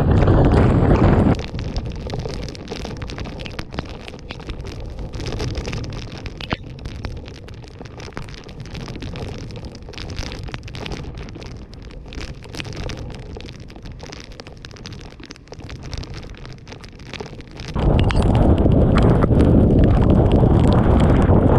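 Typhoon wind buffeting the microphone, cutting off sharply about a second in to a quieter stretch of heavy rain with many sharp ticks and gusting wind; loud wind buffeting returns suddenly a few seconds before the end.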